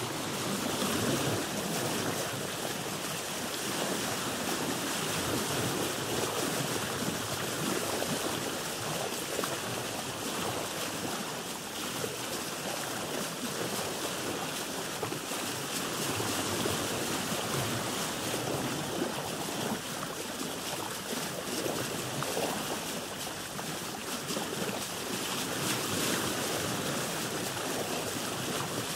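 Sea waves washing around a boat, with wind: a steady rushing that swells and eases gently.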